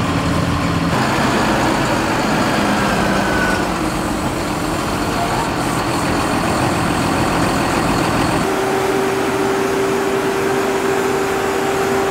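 Heavy farm machinery engines running steadily. The sound changes abruptly about a second in and again after eight seconds, when a steady whine comes in over the engine.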